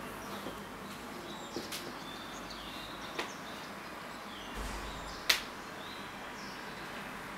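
Quiet room tone with a few faint, short bird chirps and several light clicks, the sharpest about five seconds in.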